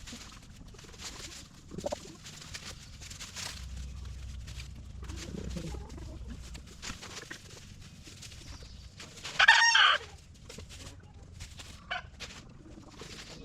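A flock of chickens clucking while foraging, with scattered short calls and one loud call from a bird, just under a second long, about two-thirds of the way in.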